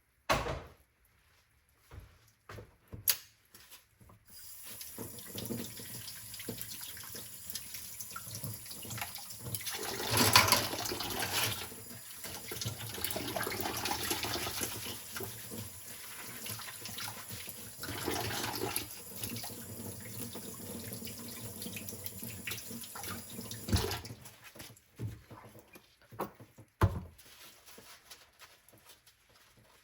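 Kitchen sink tap running for about twenty seconds while dishes are washed or rinsed under the stream, the splashing louder at two moments, then turned off. A few sharp clinks and knocks of dishes come before it starts and after it stops.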